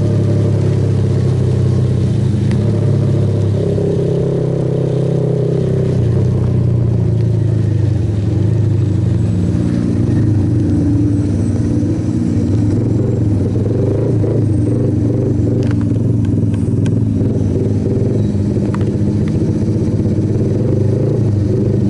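Suzuki Yes single-cylinder motorcycle engine running steadily under way, its pitch shifting a little a few times, with the rush of wind and road.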